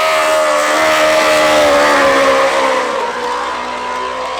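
Race car engine held at high revs, a steady loud note that dips in pitch about three seconds in and then settles a little lower and quieter.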